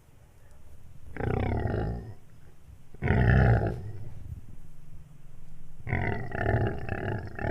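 Toy dinosaur roaring three times, each roar about a second long, the last the longest.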